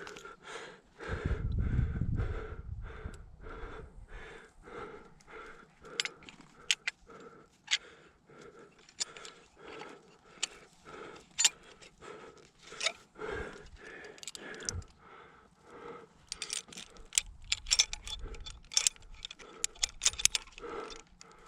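Climber breathing hard in a steady rhythm, with metal climbing gear such as carabiners clinking now and then. A short low rumble comes about a second in.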